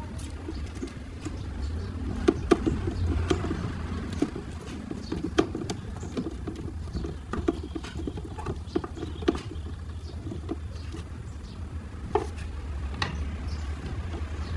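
Irregular light clicks and taps, several a second at times, over a low steady hum.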